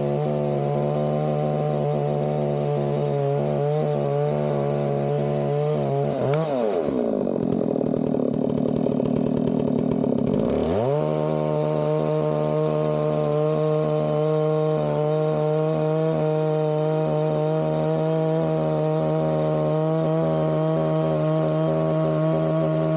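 Two-stroke chainsaw running steadily at high revs. About six seconds in, the throttle is let off and it drops to idle for roughly four seconds, then revs straight back up to the same high pitch.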